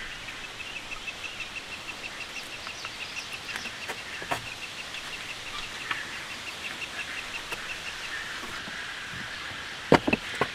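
An animal calling in a rapid, even trill of short high chirps, about six a second, which stops about eight seconds in, over a steady background hiss. Two sharp knocks come near the end.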